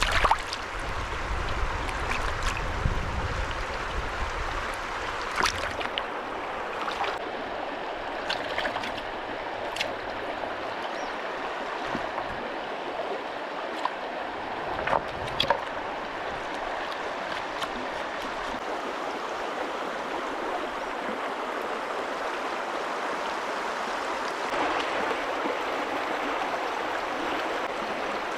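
River water flowing steadily, with a few sharp knocks or clicks over it.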